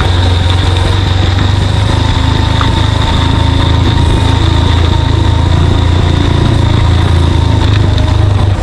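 Small single-cylinder motorcycle engine running with a steady low drone.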